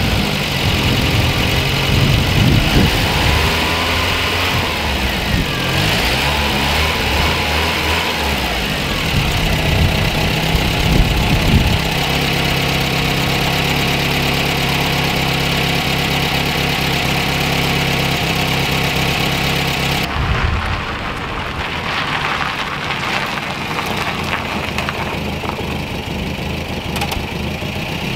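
VW Rabbit pickup's engine running with the bonnet up, its revs rising and falling for the first twelve seconds or so, then settling to a steady idle. It sounds more muffled from about twenty seconds in.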